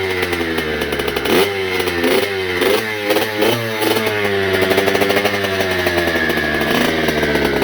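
Kawasaki KX65's small two-stroke single-cylinder engine being revved in a string of quick blips, then running more steadily with the pitch easing down.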